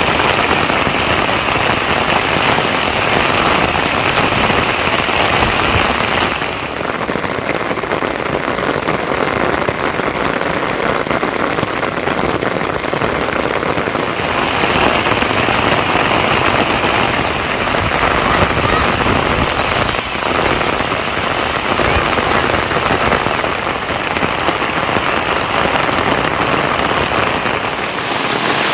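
Heavy rain falling, a loud, dense, steady patter. Its tone changes abruptly twice, about six and fourteen seconds in.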